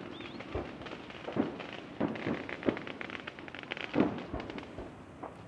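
Aerial firework shells bursting: about six separate booms, the loudest about four seconds in, with a run of crackling between about two and four seconds in.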